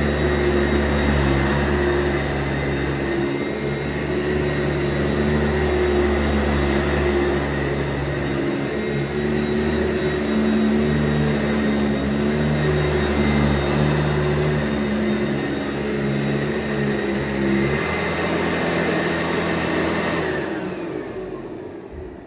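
Sanitaire SC684G upright vacuum cleaner running steadily on carpet, its motor hum shifting slightly in pitch as it is worked. A few seconds before the end the sound changes and fades away as the motor is switched off and winds down.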